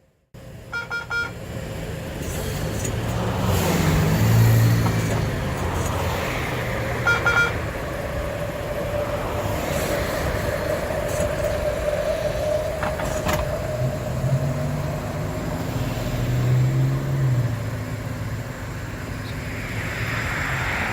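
Baltimore Metro Subway railcars moving slowly through the yard: a low motor rumble with a steady whine that rises slightly through the middle. Short beeping signals sound about a second in and again around seven seconds.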